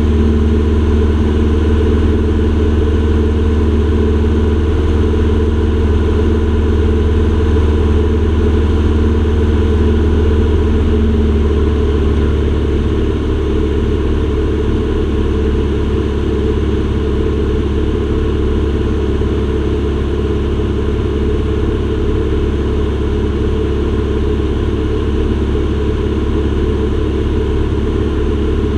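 Aircraft engines droning steadily on a landing approach, with several low steady tones. About twelve seconds in, one tone drops away and the sound eases slightly, as power changes.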